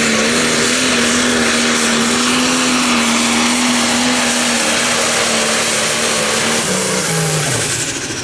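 Light Pro Stock pulling tractor's turbocharged diesel engine running flat out under load down the track, holding one steady high pitch. About seven seconds in the engine note falls sharply as the throttle comes off at the end of the pull.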